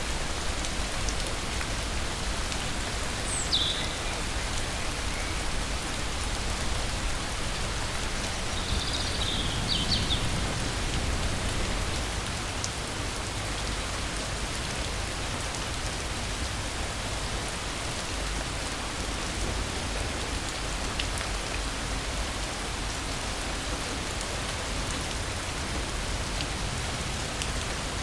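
Steady rain falling, an even hiss of drops. A few brief high chirps come through it, once about three seconds in and again around ten seconds in.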